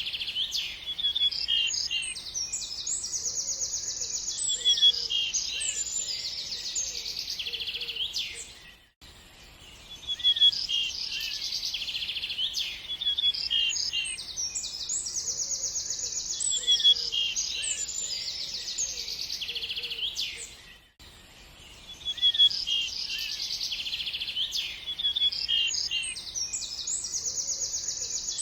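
Several birds chirping and trilling in quick, high-pitched phrases. The same stretch of birdsong repeats about every twelve seconds, dropping away briefly about nine and twenty-one seconds in as it loops.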